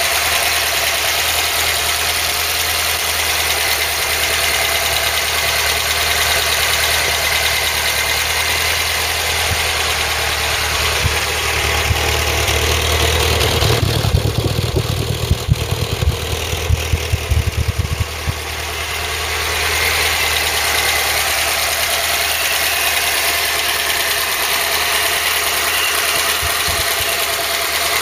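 Freshly rebuilt Ford 2.0-litre Pinto four-cylinder engine idling steadily on its first test run. About halfway through, the higher sound turns muffled for a few seconds under irregular low thumps, then the steady idle returns.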